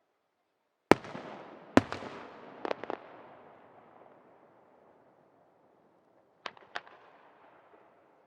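Aerial firework shells bursting: two sharp bangs about a second apart, then a quick cluster of three smaller pops, and a pair of bangs again a little after six seconds. Each is followed by a rumbling tail that slowly dies away.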